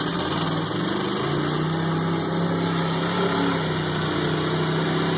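Lifted mud truck's engine running hard as it works through a mud hole. The pitch climbs over the first second, then holds at steady high revs.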